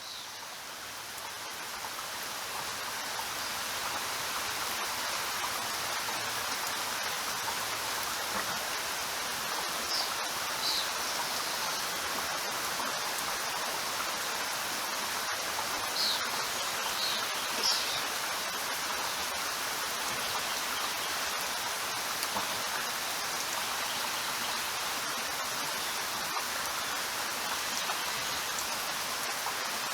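Steady, even rain falling, fading in over the first few seconds, with a few short high chirps about ten and again about sixteen to eighteen seconds in.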